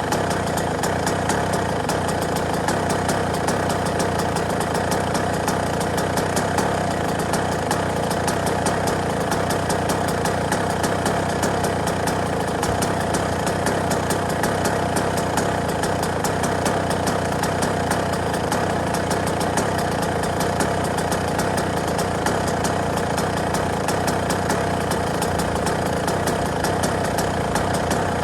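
Yamaha YZ125's single-cylinder two-stroke engine idling steadily, a fast even rattle with no revving.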